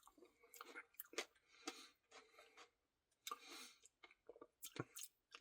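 Faint chewing and small mouth clicks as a mouthful of Dairy Queen French Silk Pie Blizzard is eaten, in short scattered bits.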